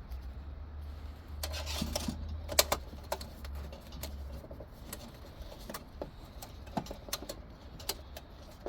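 Small metal gearbox parts clinking and tapping as they are handled on a workbench: a run of sharp clicks, the loudest about two and a half seconds in, with some rustling early on and a low hum in the first half.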